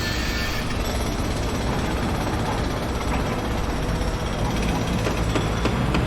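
Construction-site heavy machinery running steadily with a deep low rumble, and a few faint knocks in the second half.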